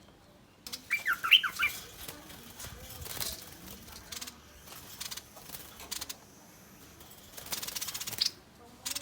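A bird giving threat calls: a quick run of sweeping chirps about a second in, then harsh, raspy hiss-like bursts near the end.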